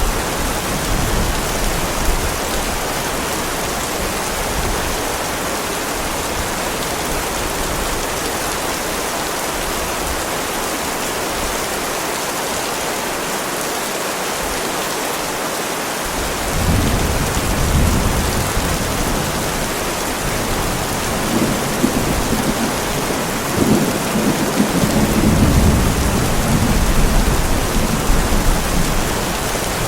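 Heavy rain falling steadily. About halfway through, thunder starts rumbling low, with rolls that build again toward the end.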